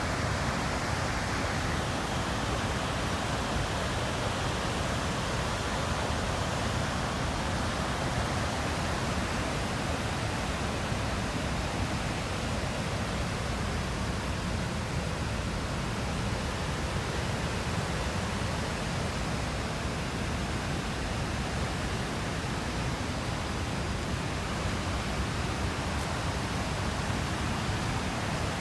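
Steady rushing of a river and waterfall: an even, unbroken noise of running water.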